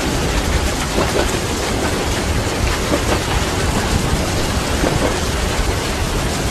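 Steady, dense rain with a continuous low rumble of thunder and a moving train underneath, with a few faint knocks of train wheels on the rails.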